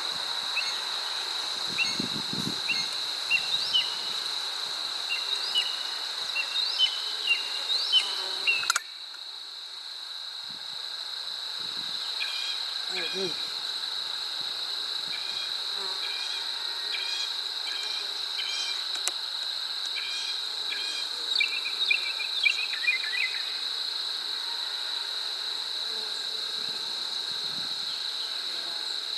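Steady high-pitched insect drone with short, repeated chirps over it. The overall level drops abruptly about nine seconds in.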